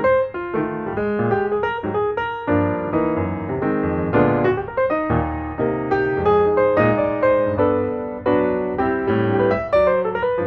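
Piano music: struck notes and chords at a moderate, flowing pace.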